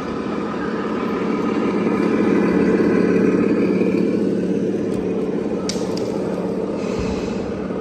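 A vehicle's motor running with a steady whir and a faint whine, growing louder to about three seconds in and then easing off. A couple of sharp clicks come a little before six seconds in.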